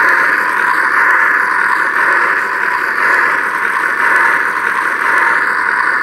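Lightsaber lockup effect from the Sith side of the Sith Warrior and Dueler custom sound font, played by a saber's sound board: a loud, steady, unbroken sizzle, a bit deeper than the Jedi version.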